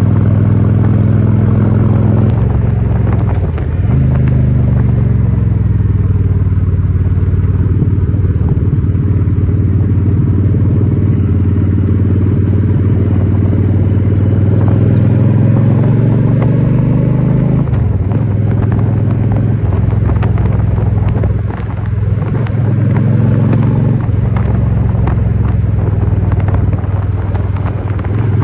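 Honda Shadow 750's V-twin engine running under way on the road, its note dipping and climbing back several times.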